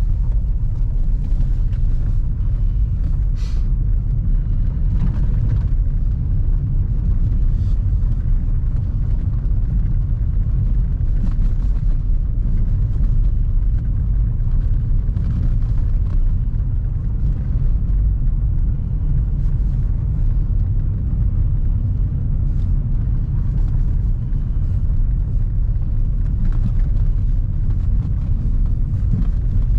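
Steady low rumble of a car on the move, heard from inside, with a few faint light clicks or rattles over it.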